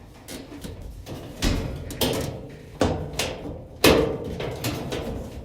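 Knocks and clunks of dryer parts being handled and fitted back together by hand: four sharp knocks, the loudest about four seconds in, with lighter clicks and rattles between them.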